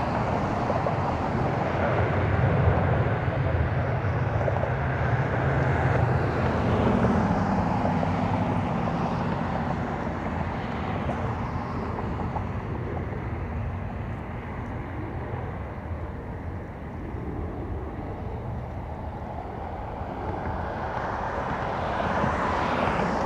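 Jet airliner engine noise at an airport: a continuous rumble, louder in the first half, easing off through the middle and building again near the end.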